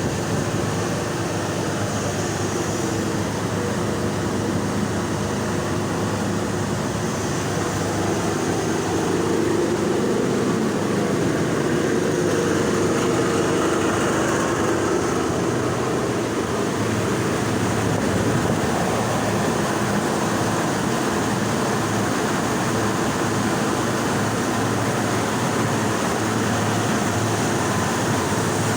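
A 6-ton combi boiler running on test: a steady, loud mechanical running noise like a large fan or blower, getting slightly louder about eight seconds in.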